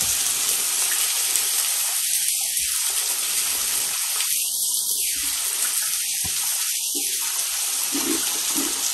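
Food frying in hot oil in a pan: a steady sizzle that dips briefly a few times.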